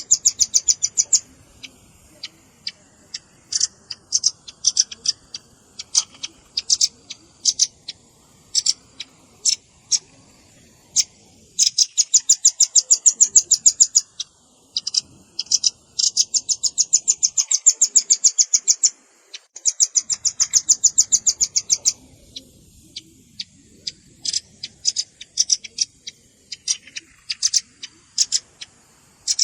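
Velvet-fronted nuthatch calls from a bird-catching lure recording. Sharp, high chips come singly and in short clusters, with long rapid trills from about twelve to twenty-two seconds in.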